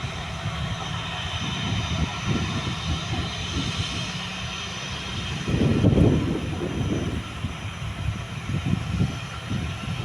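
Airbus A320's CFM56 jet engines running: a steady high whine over a low rumble, swelling louder about six seconds in.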